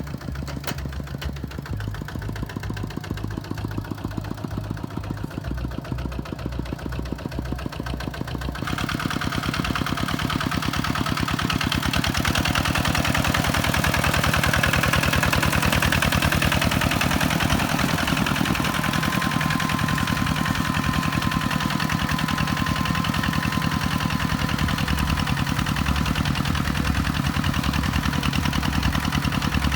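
Kubota tractor's diesel engine running steadily, growing louder and harsher between about nine and twelve seconds in, then holding there.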